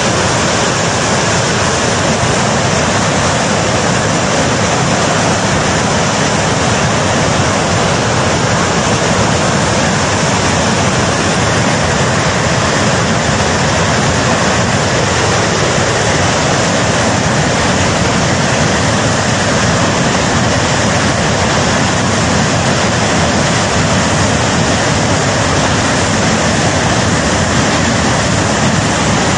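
Glacier-burst flash flood: a torrent of floodwater rushing down the river channel, loud and steady with no let-up.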